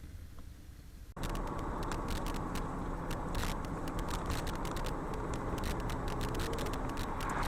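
Car dashcam audio: a low vehicle rumble, then an abrupt switch about a second in to louder, steady road or vehicle noise full of rapid clicks and crackling.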